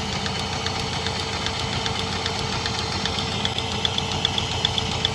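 Engine idling steadily, with a fast, regular ticking over its hum.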